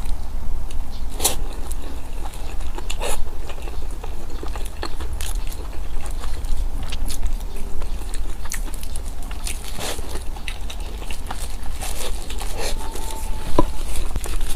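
Close-miked mouth sounds of someone eating Chinese food: biting and chewing, with irregular wet clicks and smacks. A steady low hum runs underneath.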